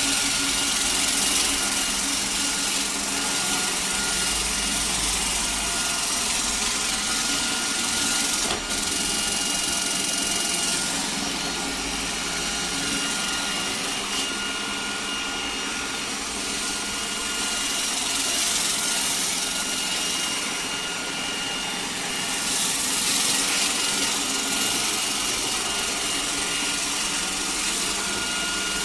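Robot vacuum cleaner running: a steady motor whine over a high hiss that swells and fades every several seconds, with one brief click partway through.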